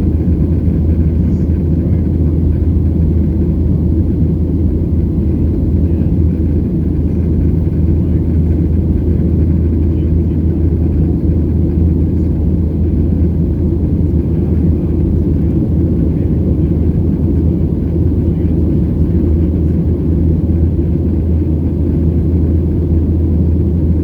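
Steady low rumble of a Boeing 737-700's CFM56 jet engines and airflow as heard inside the passenger cabin in flight.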